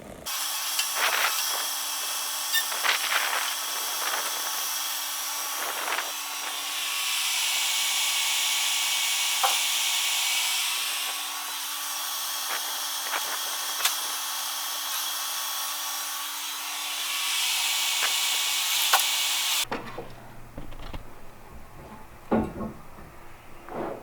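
A power tool running steadily with a constant hum, growing louder twice as it works, with scattered sharp clicks; it starts and cuts off abruptly.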